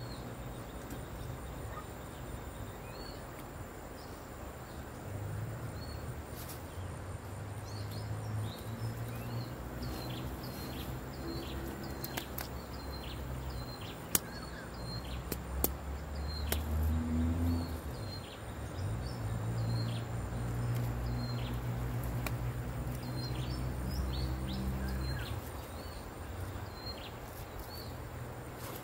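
Outdoor ambience: a bird chirping repeatedly in short high notes, over a low droning rumble that swells about five seconds in and fades near the end. A few sharp clicks fall around the middle.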